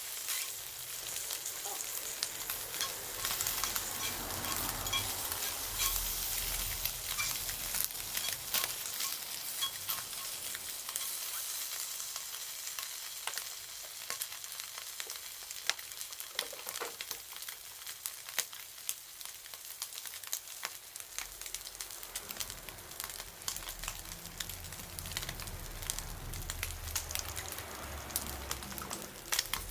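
Food sizzling in a pan over a campfire: a steady hiss with frequent small pops and crackles.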